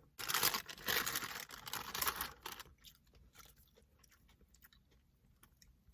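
Paper fast-food wrapping rustling for about two and a half seconds, then soft chewing with small mouth clicks.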